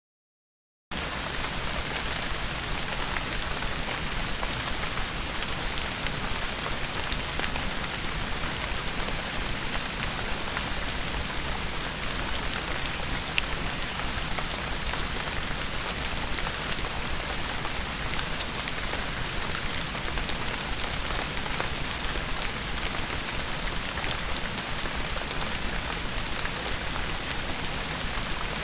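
Steady rain falling on the ground and foliage: an even hiss dotted with scattered ticks of single drops. It cuts in suddenly about a second in, after dead silence.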